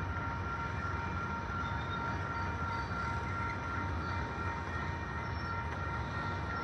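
Railroad cars rolling past a grade crossing with a steady low rumble and a continuous high tone over it.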